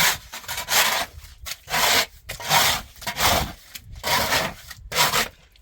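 Repeated rasping strokes, about eight in a row, each a short scrape of rough material.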